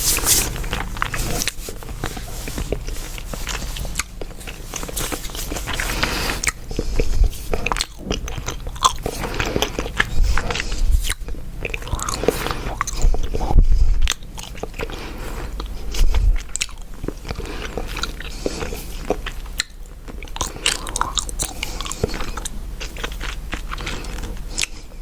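Chewing gum close to a sensitive microphone: a dense, irregular run of wet smacks and clicks of the mouth.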